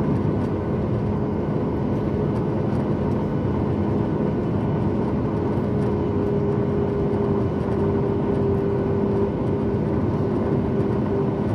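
Steady cabin noise of a Boeing 737 MAX 8 jet airliner: the rush of its CFM LEAP-1B engines and airflow heard from inside the cabin, with a low, even hum under it that grows a little stronger in the middle.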